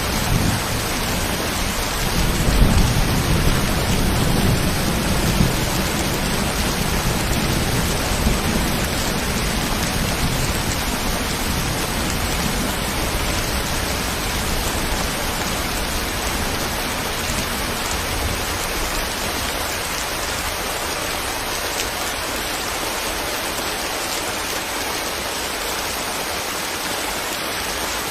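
Steady rain falling, with a low rumble of thunder underneath that swells near the start and fades out about two-thirds of the way through.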